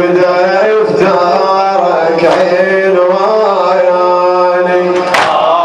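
A man sings a Shia mourning lament (latmiyya) in Arabic, a long melismatic line whose held notes slide and waver in pitch over a steady low tone.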